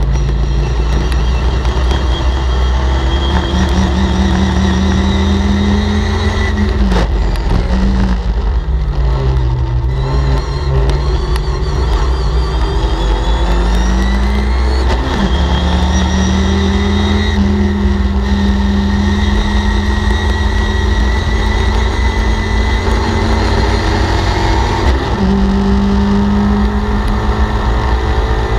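Sebring Sprite race car's four-cylinder engine running hard on a circuit lap, heard from the cockpit, its pitch climbing with the revs. About a quarter of the way in the revs fall away under braking and then build again, with quick gear changes about halfway and near the end.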